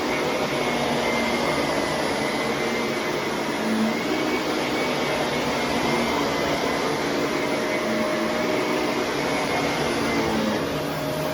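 Shark vacuum cleaner running steadily, a constant rush of motor and airflow with a faint high whine over it.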